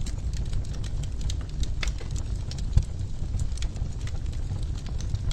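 Wood fire crackling and popping at irregular moments over a steady low rumble of the flames, with one louder pop near the middle.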